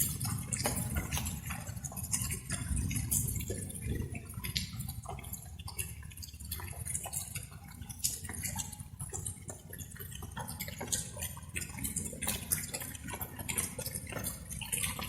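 Light rain, with drops dripping and splashing in an irregular patter over a steady low rumble.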